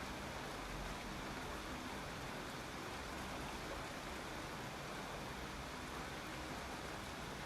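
Steady, even rain with no separate drops standing out.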